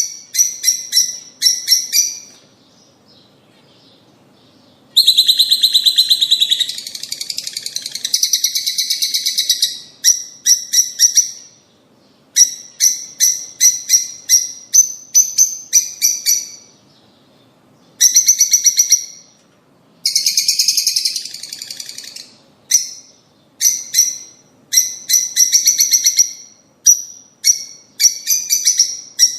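Rosy-faced and Fischer's lovebirds chirping in rapid runs of sharp, high-pitched calls. A denser burst of chatter comes about five seconds in, and there are a few short pauses.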